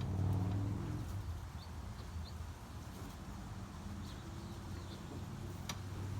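A small engine running steadily at idle, a low hum that wavers slightly. A few faint bird chirps come through, and there is a sharp click near the end.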